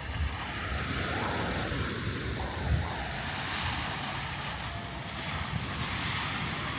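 Surf washing onto a sandy beach, swelling and easing, with wind buffeting the microphone.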